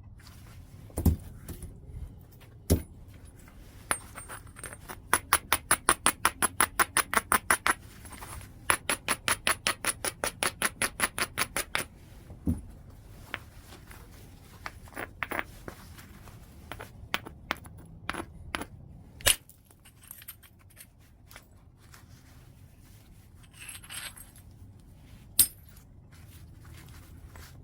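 Knapping white chert with a hand-held tool: single sharp percussion strikes on the stone, and twice a quick run of light, even taps or strokes at about five a second, as in preparing the edge before a strike.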